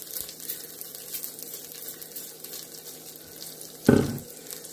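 Oil sizzling in the Instant Pot's inner pot: a steady crackling hiss. One loud knock comes about four seconds in.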